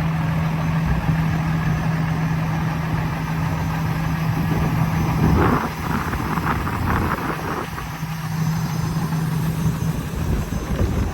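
Engine of a hi-rail ultrasonic rail-testing rig idling with a steady low hum, and a short burst of clattering about halfway through.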